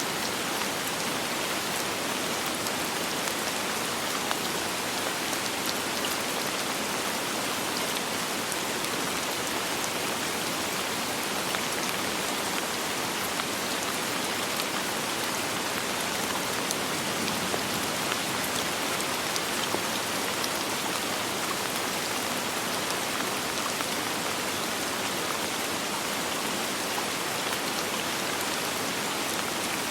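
Steady rain falling, an even hiss of drops with faint individual patters, without thunder.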